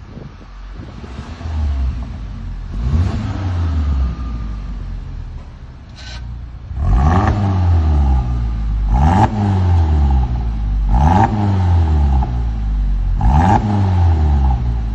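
Car engine revved through an aftermarket valve-controlled exhaust: one rev a few seconds in, then four quick blips of the throttle about two seconds apart, each rising and falling back to idle.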